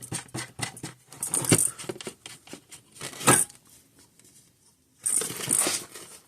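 Small clicks and taps of wires and small metal parts being handled on a workbench, two of them louder, followed by a short stretch of rustling near the end.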